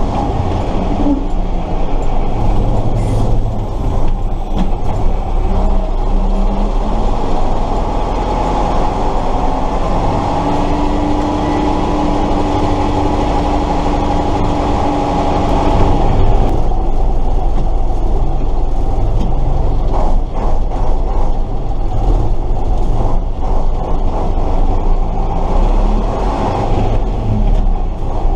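Tatra 138 truck's air-cooled V8 diesel running steadily while driving, heard on board, with a steady whine holding for several seconds in the middle.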